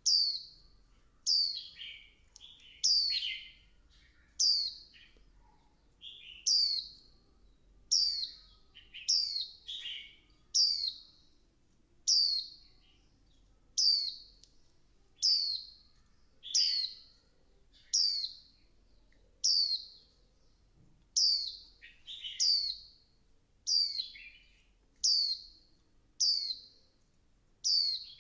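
A female white-eye calling: short, high chirps sweeping downward, repeated at an even pace about every second and a half. These are the female calls that bird keepers play to stir a male white-eye into song.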